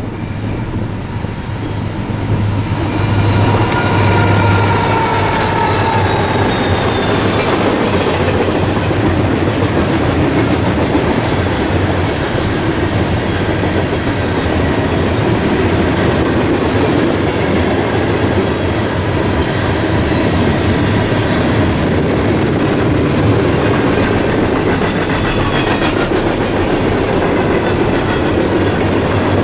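Freight train passing at speed. It swells over the first few seconds, with several high tones sliding down in pitch, then settles into a steady noise of the cars rolling by on the rails.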